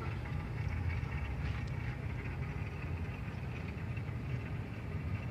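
Steady low hum with a rough rushing noise over it from a Polytron refrigerator while its refrigerant circuit is being flushed with gas.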